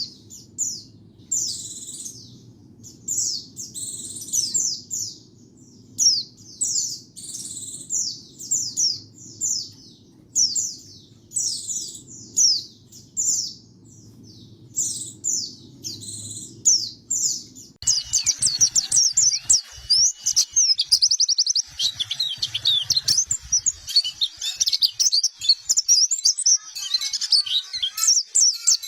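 White-eye (pleci) singing: short phrases of high, quick downward-sweeping notes repeated about once a second over a low hum. About eighteen seconds in, the recording switches to a continuous rapid twittering.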